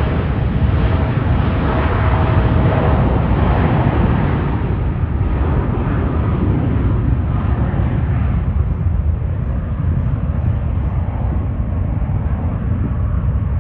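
Jet airliner's engines, a loud steady rush that slowly fades and loses its high end as the plane moves away.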